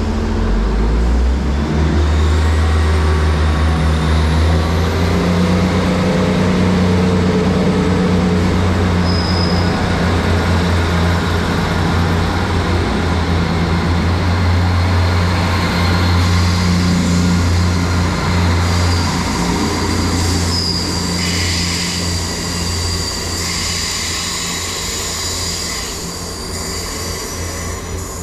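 Two coupled Class 158 diesel multiple units pulling away, their underfloor diesel engines working under load with a steady low drone that rises in pitch a second or two in, then gradually fading as the train leaves; brief high wheel squeals about a third of the way in and again later.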